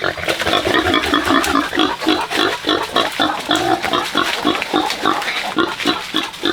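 Pigs calling in a continuous, rapid string of short grunts, several a second.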